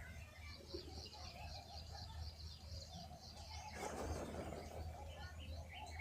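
Birds chirping, with many short high calls, and a brief flurry of wing flapping about four seconds in. A low steady hum runs underneath.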